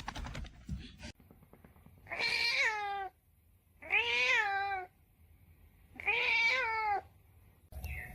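Domestic cat meowing three times: long, drawn-out meows of about a second each, about two seconds apart, each rising and then falling in pitch. A few light clicks come before the first meow.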